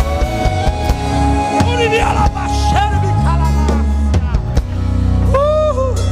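Live church band playing with drum kit and guitar, with short voice calls about two seconds in and again near the end.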